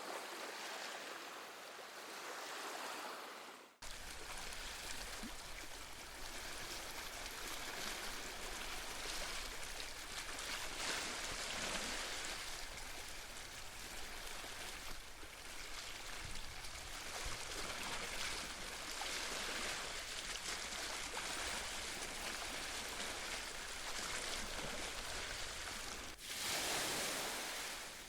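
Ocean waves washing on a shore: a steady rushing surf that swells and eases, with a brief dropout about four seconds in.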